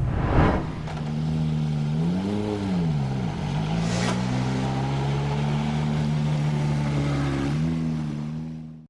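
1961 Montesa Brío 110 S 'Monotubo' 125cc single-cylinder two-stroke motorcycle engine running with a single exhaust pipe. It is revved once about two seconds in, the pitch rising and falling back, then settles into a steady idle with a small blip of throttle near the end, and the sound cuts off suddenly.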